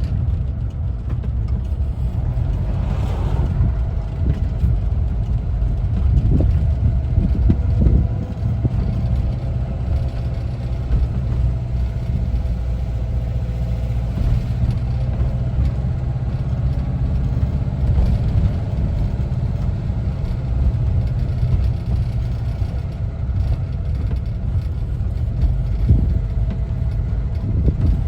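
1974 Volkswagen Westfalia camper's air-cooled flat-four engine running steadily while driving, a low drone with road noise.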